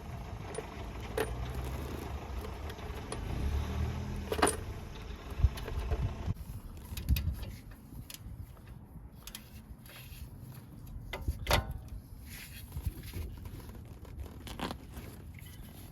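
Light metallic clicks and clinks of tools being handled. Under them a steady low hum runs for the first six seconds and cuts off abruptly.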